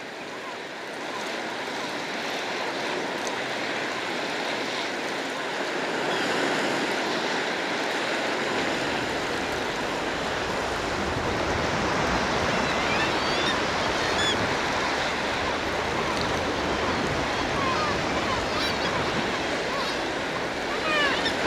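Sea surf as a steady rush that slowly grows louder, with short seabird calls from the colony coming through from about halfway on and crowding together near the end.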